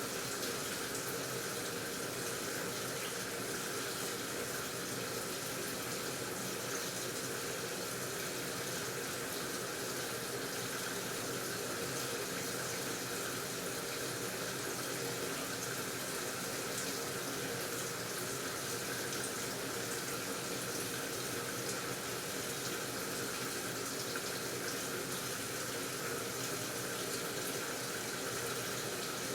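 AQUA washing machine tub filling with water: a steady rush of running water, unchanging throughout.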